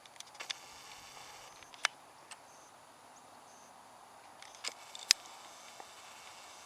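Camera handling noise: scattered sharp clicks and taps, the loudest about five seconds in, over a faint steady hiss.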